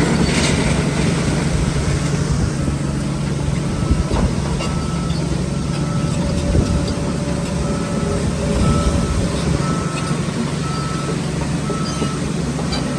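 Heavy diesel earthmoving machinery running steadily, with a reversing alarm starting about four seconds in and beeping at an even pace, about once a second.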